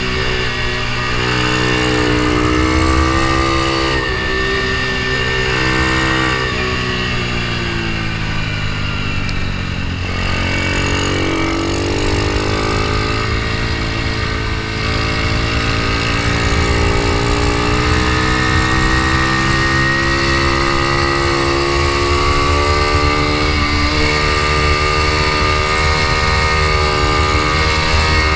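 Ohvale mini GP motorcycle's single-cylinder four-stroke engine heard on board at race pace, its revs rising and falling through the gears, with a deep drop about eight to ten seconds in before it climbs again. Wind rushes over the bike-mounted microphone underneath.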